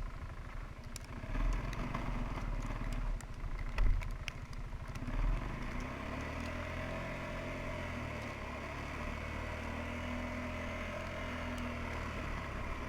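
Suzuki QuadRunner 300 ATV engine running at low revs while the quad works through deep snow in super-low gear. A few knocks and rattles come in the first half, then a steady low drone from about six seconds in.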